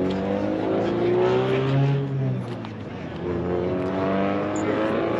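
A car engine running, its revs rising and easing gently, dipping about three seconds in before picking up again.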